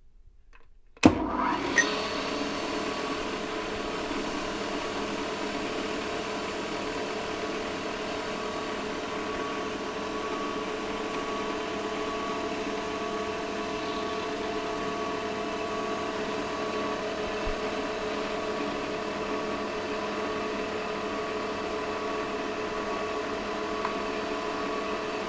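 Manual milling machine switched on about a second in with a sharp click, its motor and spindle then running steadily with an even, constant whine.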